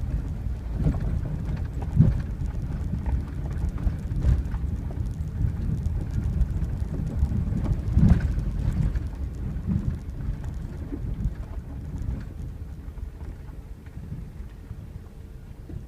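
Truck driving on a rough dirt road: a steady low rumble with sharp jolts about 2, 4 and 8 seconds in, easing off toward the end.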